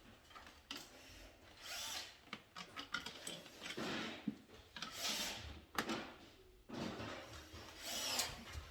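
Hand-held tool work on control-panel wiring, in about five short noisy bursts of half a second to a second each, with a few sharp clicks between them.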